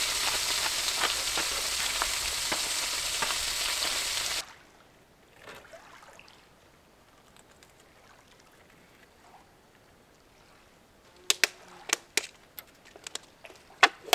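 Food sizzling on a small camping stove, a steady hiss with light crackles that cuts off about four and a half seconds in. After a quiet stretch, a quick run of sharp clicks and clinks comes near the end.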